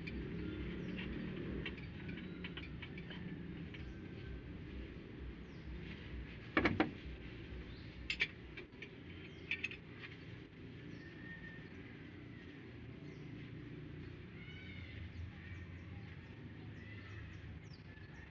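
Birds chirping over a steady low background hum, with a few sharp clicks or knocks, the loudest about seven seconds in.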